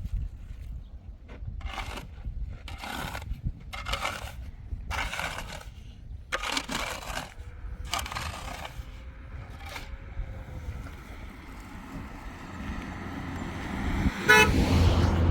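A run of about eight rasping, scraping strokes, roughly one a second, then a loud, short, horn-like blast near the end over a low rumble.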